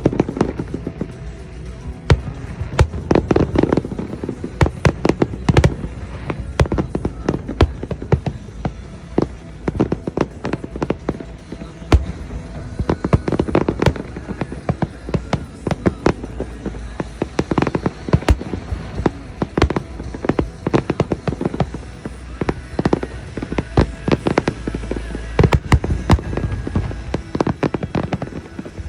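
Fireworks display going off: a dense run of bangs and crackles, several a second, with louder volleys every few seconds.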